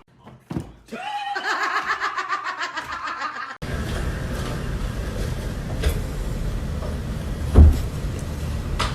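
A few soft clicks, then a pulsing, laughter-like voice for about two and a half seconds. It cuts off abruptly into a steady noisy rumble with one loud thump near the end.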